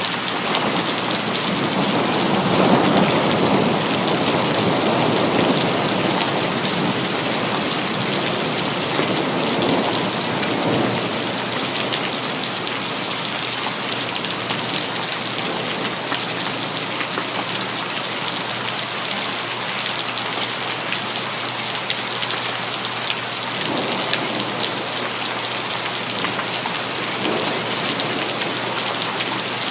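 Steady heavy rain falling, with low rumbles of thunder swelling in the first ten seconds or so and fainter ones later on.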